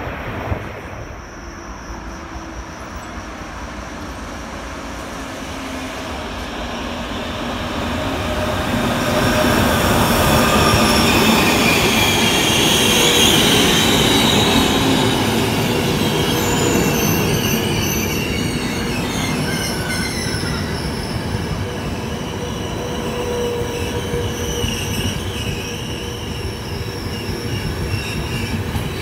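Trenitalia InterCity passenger coaches rolling along the station platform: a rumble that builds over the first ten seconds, then high wavering wheel squeal as the coaches run past.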